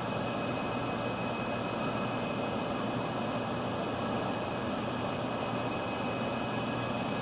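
Steady indoor background noise of a large hall, with a low hum and a thin high steady tone running through it.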